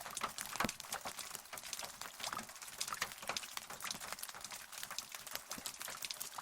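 Rain pattering close by: a dense, irregular run of sharp drop taps over a steady hiss, with no thunder.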